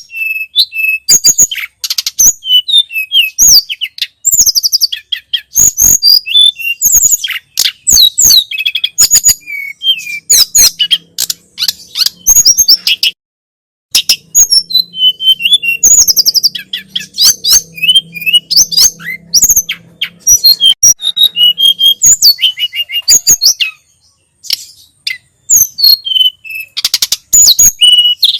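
Tledekan gunung (sulingan gunung) songbird singing a fast, jumbled song of high whistled notes and sharp clicks, with brief pauses about halfway and near the end.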